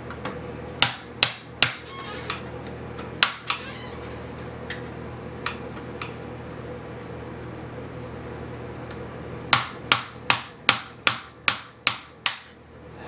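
Sharp taps of tool work on a metal chassis. A few scattered strikes come in the first few seconds, then a quick run of about nine strikes, between two and three a second, near the end.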